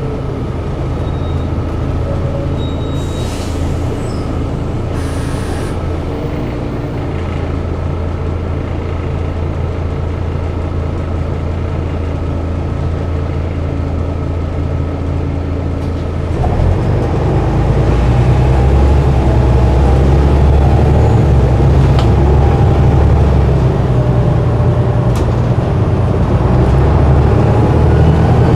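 Diesel bus engine running steadily, with two short hisses of air early on; about halfway through the engine note steps up and gets louder, as when the bus accelerates away.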